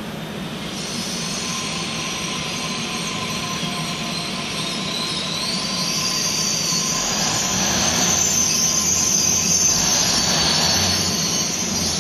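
Passenger train moving slowly alongside the platform, its wheels giving high-pitched squeals over a low rumble, growing louder as it comes on.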